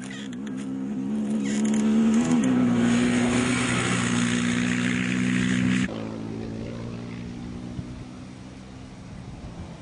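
A rally competitor's engine revving up, its pitch climbing for the first couple of seconds and then held high at full throttle with loud hiss of tyre and gravel noise. About six seconds in the sound drops off abruptly to a quieter, lower engine note.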